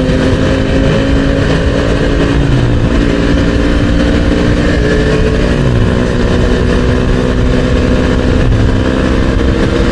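Motorcycle engine running at a steady, even pitch on the move, over a constant hiss of wind and road noise, with a few brief low pitch glides along the way.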